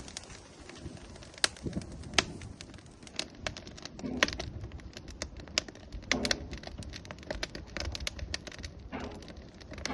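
Firewood burning in an outdoor grill, crackling with frequent sharp pops at an irregular pace over a low hiss.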